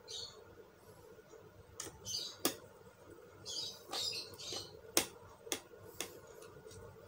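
Small laptop parts being handled during reassembly: sharp plastic and metal clicks and taps, about five of them, with short scratchy rustles in between.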